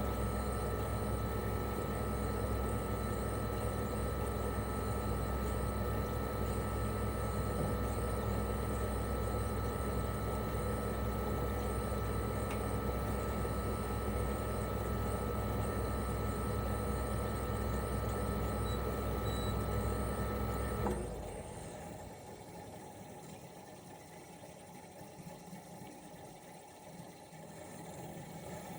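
Toshiba RAS-285BAD mini-split outdoor unit running in cooling mode, its twin-rotary inverter compressor making a steady hum with a steady high whine. About two-thirds of the way through, the compressor stops suddenly and the sound drops to a much quieter one.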